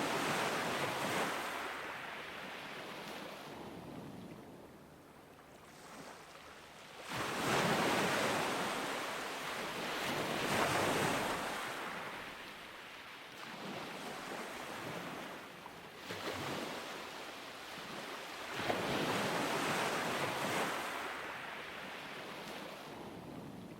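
Ocean waves breaking and washing up a beach, the surf hiss swelling and fading in slow surges: one at the start, a big one about seven seconds in, and another near the end.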